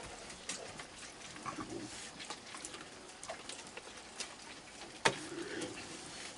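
Raccoons feeding close by: soft low churring calls among scattered light taps and patter, with one sharp click about five seconds in.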